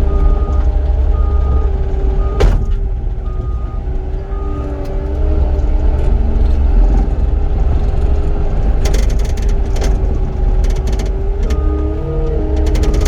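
Cat 259D compact track loader's diesel engine running steadily under work, its pitch shifting a little as it moves. Its backup alarm beeps in the first few seconds and again near the end. There is a sharp clank a couple of seconds in and a run of clanks and rattles later.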